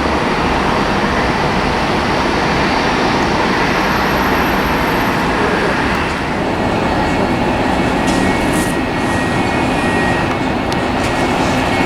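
Jet airliner engine noise, a loud steady rush, with a faint high whine joining about halfway through. Wind buffets the microphone.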